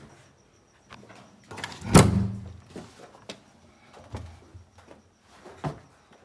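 A door shutting with one heavy thump about two seconds in, among a few lighter knocks and clicks.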